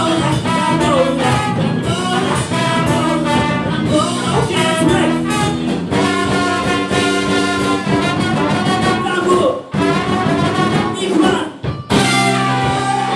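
Live funk band with a brass horn section playing loudly, with some singing. The band cuts out briefly twice near the end before coming back in on a held chord.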